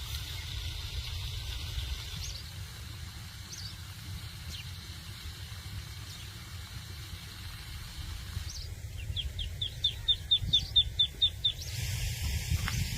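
A songbird calling outdoors: a few scattered single chirps, then about two thirds of the way in a quick run of about a dozen chirps, several a second. A steady low rumble runs underneath.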